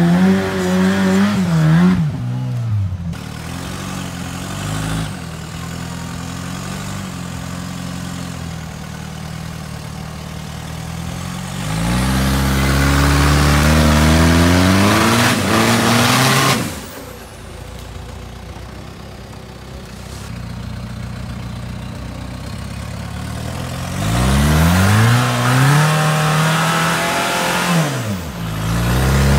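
Off-road trial vehicle's engine revving hard in long bursts that climb in pitch, dropping back to a lower steady run between them. The loudest burst comes about twelve seconds in and cuts off suddenly; another rises about twenty-four seconds in.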